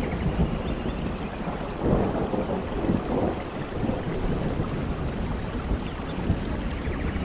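Steady heavy rainfall with a low rumble of thunder that swells a couple of times. Faint high chirps come through twice.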